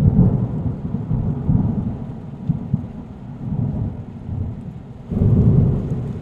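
Deep, noisy rumble with no clear pitch, swelling loudly at the start and again about five seconds in.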